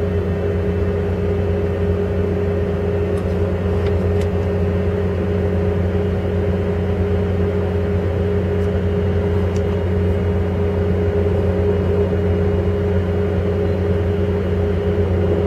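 Steady rumble and low hum inside a passenger train car rolling along the rails at speed, with a few faint light ticks in the first half.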